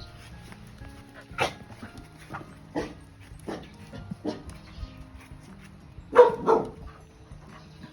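A dog barking in single barks spaced about a second apart, then two louder barks in quick succession near the end.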